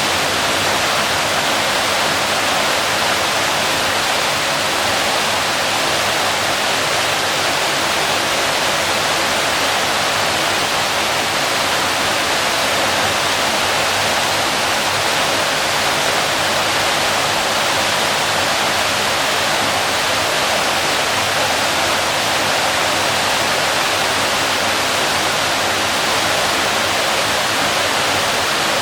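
Waterfall: water falling and splashing in a steady, unbroken rush, loud and even throughout.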